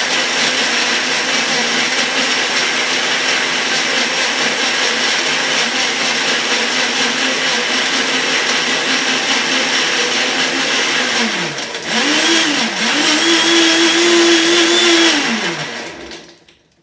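Electric countertop blender running, blending banana with milk and liqueurs. About two-thirds of the way through, the motor pitch dips and recovers twice. It then runs on briefly and winds down to a stop near the end as it is switched off.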